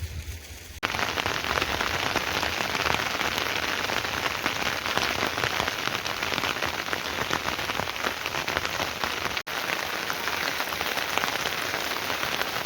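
Heavy rain pouring down, a dense even patter of drops hitting a surface. It starts suddenly just under a second in and cuts out for an instant about two-thirds of the way through.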